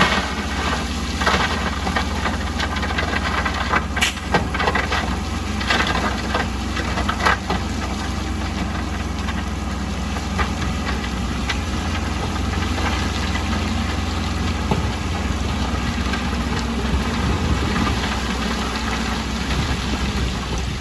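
Heavy construction machine's engine running steadily with a deep drone, with a string of sharp knocks and clanks over roughly the first eight seconds.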